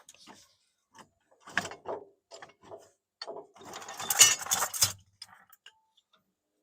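Metal clicking and scraping from steel parts and a small vise being worked, with a louder rasping stretch about four seconds in.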